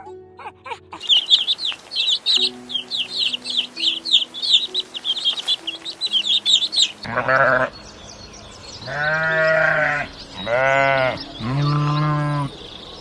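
Birds chirping in a rapid run of short, high calls, then four long, wavering bleats from a goat or sheep, with soft background music underneath.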